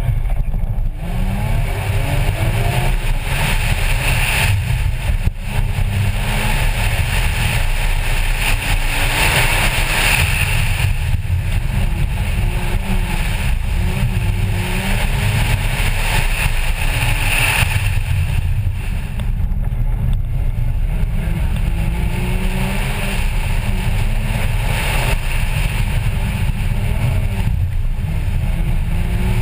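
Porsche Cayman's engine under hard acceleration as the car pulls away, then running loud for the whole run, its pitch repeatedly rising and falling as the driver accelerates and lifts between the cones.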